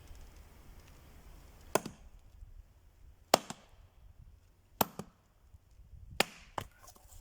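Axe chopping into a log, four sharp strikes about a second and a half apart, with a couple of lighter knocks just after the last one.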